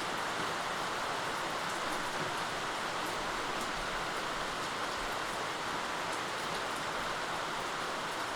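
Steady rain falling: an even hiss, with faint, scattered ticks of single drops.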